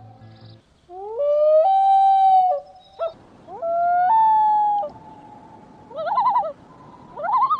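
A bird's long wailing calls: two drawn-out notes that rise and then hold steady, followed by short wavering trills near the end.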